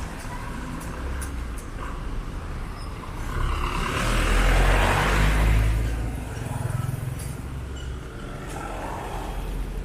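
Road traffic with a steady low engine rumble; one vehicle passes close about four to six seconds in, its engine and tyre noise swelling and then fading.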